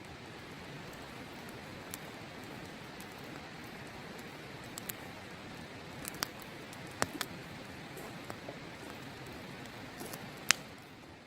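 Campfire wood crackling, with scattered sharp pops and snaps, the loudest about ten seconds in, over the steady rush of a river.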